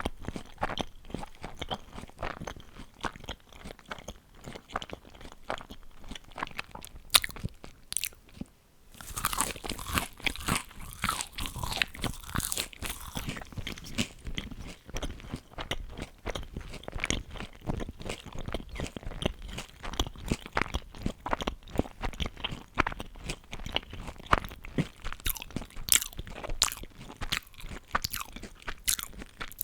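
Close-miked chewing and crunching of crisp food, a dense crackle of small crunches throughout. After a brief pause about a third of the way in, a burst of louder, denser crunching follows, as of a fresh bite being chewed.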